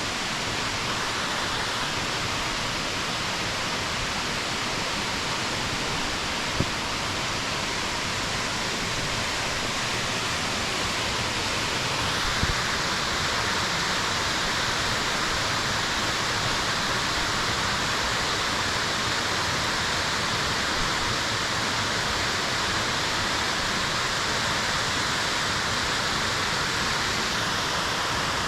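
Steady rush of Ripley Falls, a 100-foot waterfall cascading over smooth granite cliffs. It gets a little louder and brighter about twelve seconds in.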